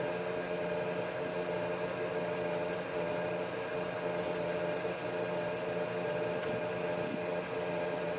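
A steady machine hum with an even hiss, holding constant throughout.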